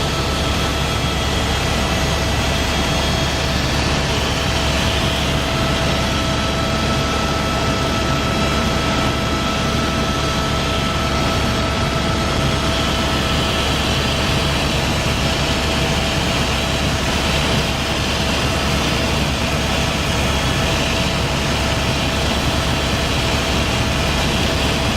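Helicopter running steadily: a constant engine and rotor drone with a steady high whine over it.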